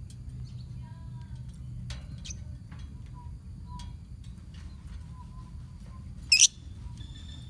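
Lovebirds in a colony chirping: faint short chirps and a few clicks, with one loud, shrill squawk about six seconds in, over a steady low rumble.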